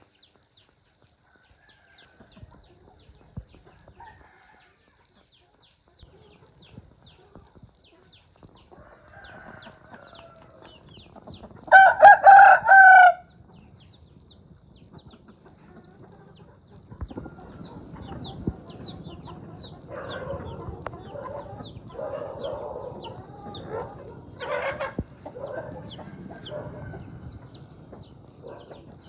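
A rooster crows once about twelve seconds in, the loudest sound. From about halfway on, hens cluck and call over a bed of scratching and pecking noise. A faint high chirp repeats about twice a second throughout.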